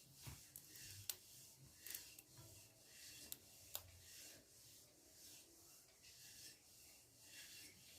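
Near silence with faint rubbing and a few small handling clicks.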